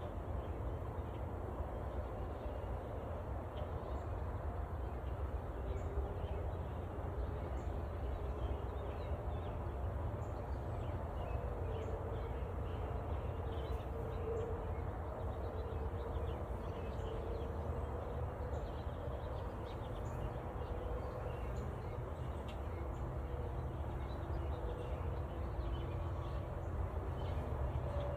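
Steady hum of a honeybee colony at the hive entrance, with the wavering drone of individual bees flying close by. Faint bird chirps sound in the background.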